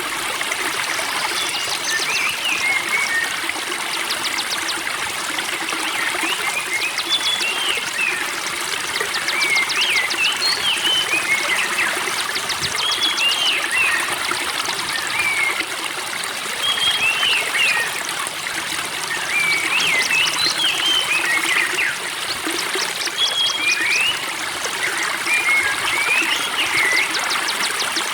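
Spring water trickling and burbling steadily, with small songbirds chirping over it in short repeated phrases of quick notes and fast high trills every few seconds.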